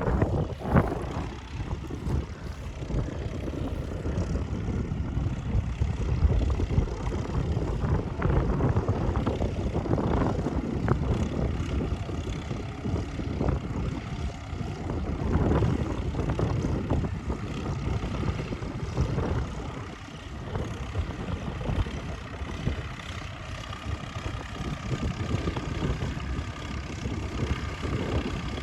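Ploughing machinery engine running with a steady low rumble that flutters unevenly.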